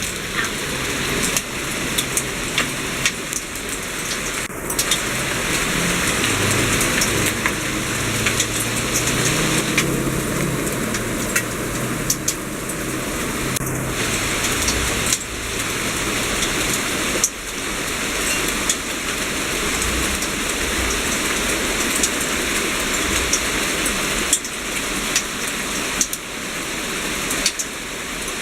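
Heavy pea-size hail pelting down: a dense, steady clatter of countless small ice impacts with sharper ticks throughout. A low hum runs underneath for several seconds in the first half.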